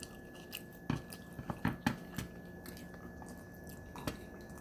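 Eating sounds of a person chewing steamed crab: short wet mouth clicks and smacks, bunched together about a second to two seconds in, with one more near the end.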